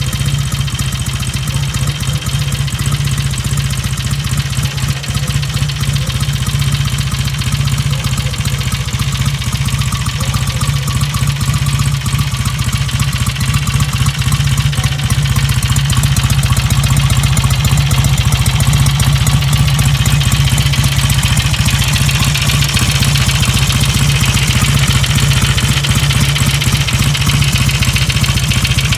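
1953 Royal Enfield Meteor's 700cc parallel-twin engine idling steadily, getting a little louder about halfway through.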